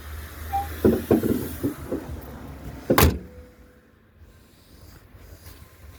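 Closing up a truck: a few knocks and rattles about a second in, then one loud slam about three seconds in as a hood or door is shut.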